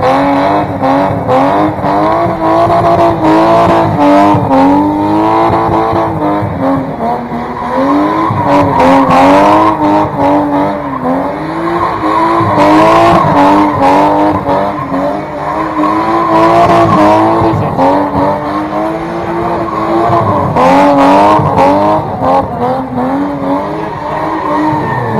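Car engine held at high revs, its pitch rising and falling about once a second, with tyres squealing, as in drifting or a burnout.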